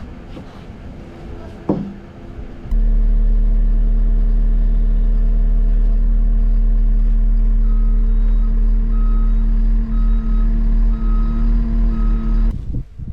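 Skid loader engine running with a steady loud hum that starts abruptly a few seconds in. Its reversing alarm beeps in a steady rhythm through the second half.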